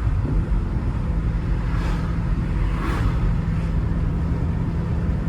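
A BMW's engine running at a steady drone with road noise, heard from inside the cabin while the car is driven.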